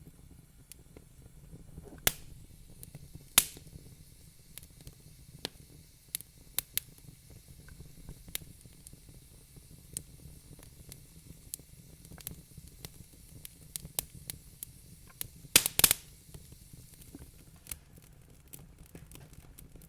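Wood fire crackling: irregular sharp pops and snaps over a low steady hiss, with a quick cluster of louder pops about three-quarters of the way through.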